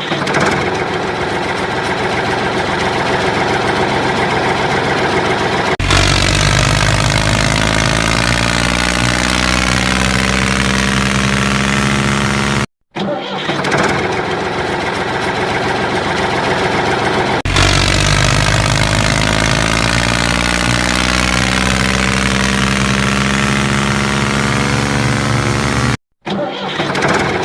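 Tractor engine sound starting and running, with a steady low beat and pitch that glides down. It cuts out briefly about 13 seconds in, then starts again with the same pattern repeated.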